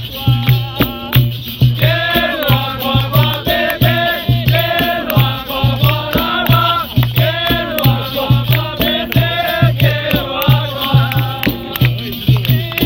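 Capoeira roda music: a berimbau's caxixi rattle and percussion keep a steady beat, and call-and-response singing comes in about two seconds in.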